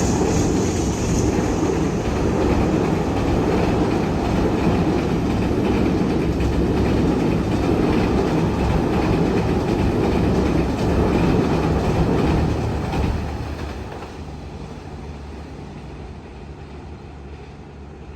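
A passing train's carriages running along the rails, loud and steady, then fading quickly about thirteen seconds in as the train draws away.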